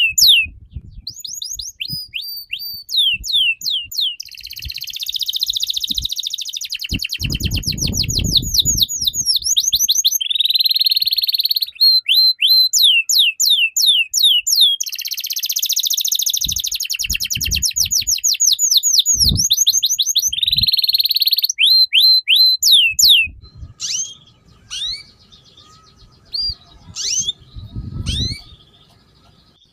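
A songbird singing a loud, fast, continuous song of rapid down-slurred whistles alternating with buzzy trills. About 23 s in, the song thins to sparser, fainter chirps, with a few low thumps now and then.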